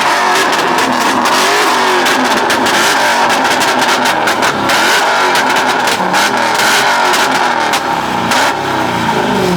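A car engine revved hard and repeatedly, its exhaust firing sharp pops and crackles throughout over a continuous roar.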